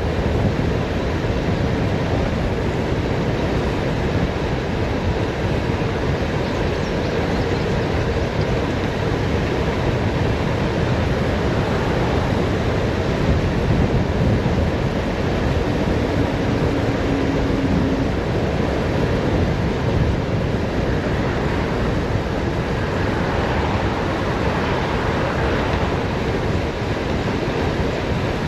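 Steady wind rushing over the microphone during a fast downhill bicycle ride, mixed with road noise, with a brief low tone about halfway through.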